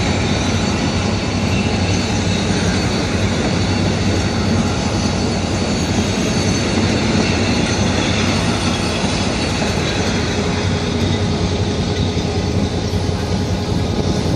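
Train running on the rails behind a Henschel locomotive: a steady loud rumble of wheels and coaches, with clickety-clack and a thin, high wheel squeal.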